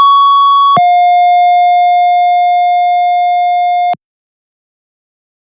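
Two-tone sequential fire dispatch page (tone-out): a steady high tone for under a second, then a lower steady tone for about three seconds, both cutting off sharply, followed by silence.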